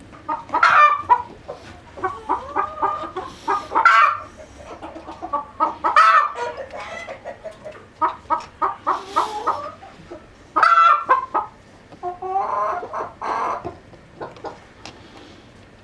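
Chickens clucking in a steady run of short calls, with louder calls about a second in, around four and six seconds, and near eleven seconds.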